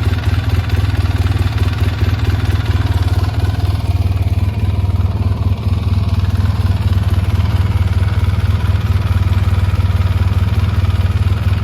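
Polaris Sportsman 800 ATV's twin-cylinder engine idling steadily with a fast, even pulsing.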